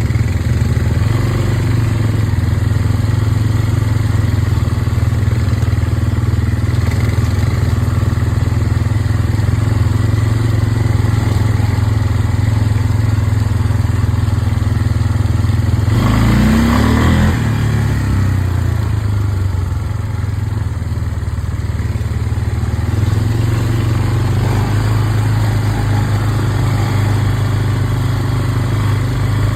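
Off-road vehicle engine running steadily under way, briefly revving up and back down about sixteen seconds in.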